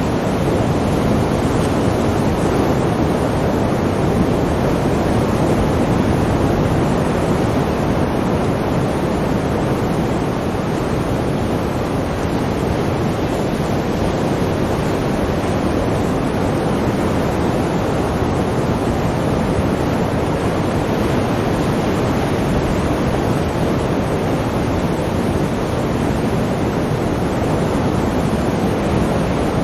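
Sea surf: waves rushing continuously, a steady dense noise with no distinct separate crashes.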